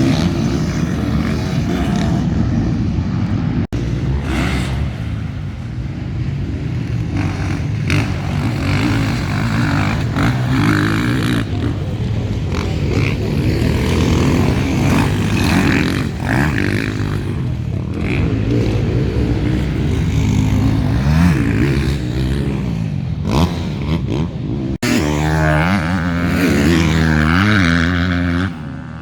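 Motocross bikes racing on a dirt track, several engines revving up and down through the gears as they pass. There are abrupt cuts about four seconds in and again near the end.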